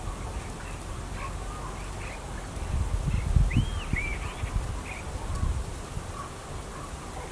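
Small birds chirping in short notes, with two arched whistled calls in the middle. A low rumble rises under them for a couple of seconds midway.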